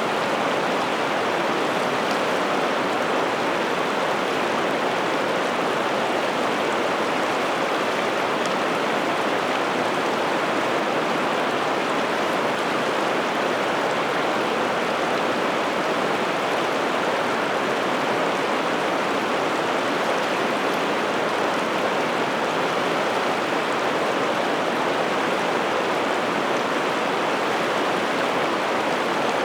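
River water rushing steadily, a dense, even wash of sound that does not change.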